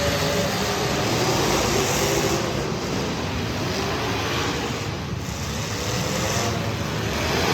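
Street stock race car engines running at speed on a track, with a dense wash of noise and several engine notes rising and falling in pitch as the cars pass.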